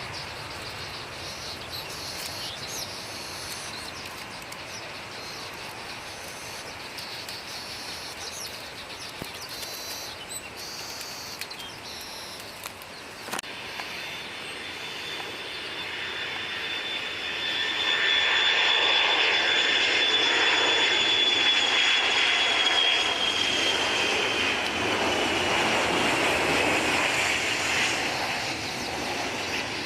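Boeing 737-200 jet coming in to land and passing close, its Pratt & Whitney JT8D engines giving a loud high whine that falls slowly in pitch. The whine builds from about halfway through, peaks for most of the second half, then eases. Before that, a fainter steady jet rumble is heard.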